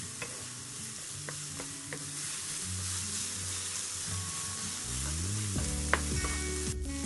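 Diced vegetables (carrots, beans, capsicum, spring onions) sizzling as they fry in a frying pan, stirred and scraped around with a wooden spatula, with a few light clicks of the spatula against the pan.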